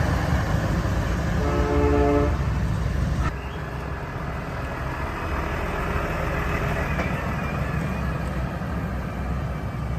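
Heavy truck engines running with a single air horn blast of about a second near the start; about three seconds in the sound drops to a quieter, steady engine and traffic rumble.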